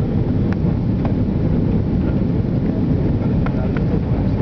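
Airliner cabin noise: a steady low rumble of the jet rolling along the ground after landing, with a few faint clicks.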